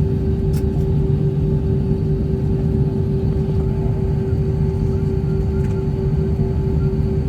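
Airbus A321 cabin noise: a steady low rumble with a constant mid-pitched hum over it.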